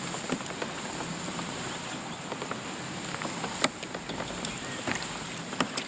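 Steady running noise of a boat trolling on a lake, engine and water blended into an even hiss, with a few light clicks about three and a half seconds in and near the end.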